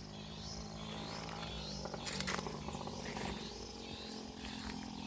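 Insects chirping in a steady repeating pattern, about two calls a second, over a low steady drone, with a brief crackle of rustling about two seconds in.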